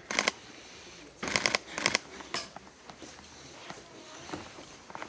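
A few short, crisp rustling clicks, one at the start and a quick cluster a little over a second in, with quiet room tone between them.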